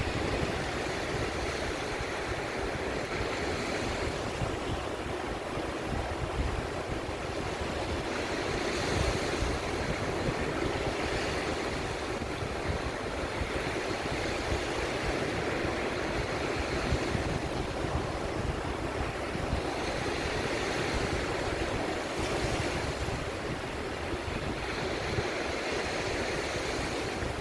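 Sea waves washing in, the surf swelling and easing every few seconds, with the sea breeze rumbling on the microphone.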